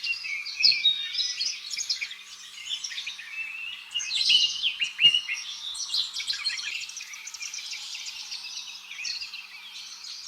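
A chorus of birds chirping: many short, high, quick calls overlapping, with louder bursts about four and five seconds in.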